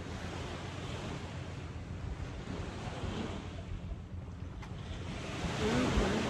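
Ocean waves washing onto the shore, with wind buffeting the microphone as a low rumble; the surf swells louder near the end.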